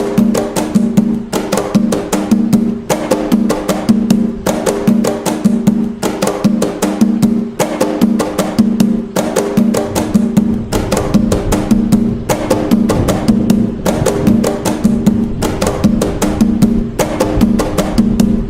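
Atabaque hand drums playing the nagô rhythm (toque nagô) as a steady, fast repeating pattern of deep open tones and sharp slaps, with no break.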